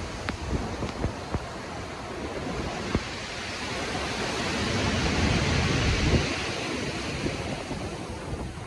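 Ocean surf in stormy weather: a broad rushing wash of waves that swells to a peak about five seconds in and then eases back.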